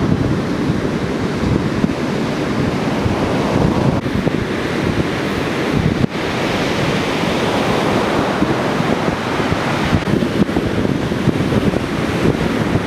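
Ocean surf from a typhoon swell breaking and washing ashore, with wind buffeting the microphone. A wave's rushing wash swells about five seconds in and eases off about five seconds later.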